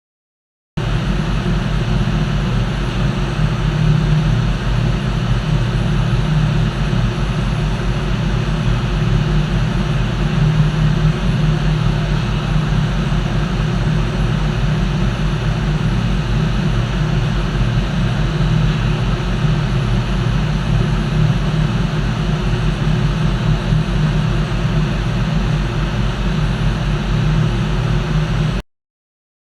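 Heavy machinery in a ship's engine room running steadily with a loud, deep drone. It starts suddenly about a second in and cuts off abruptly near the end.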